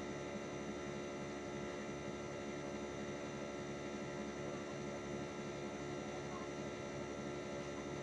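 Hitachi 1-ton split air conditioner's outdoor unit running with a steady hum made of several fixed tones.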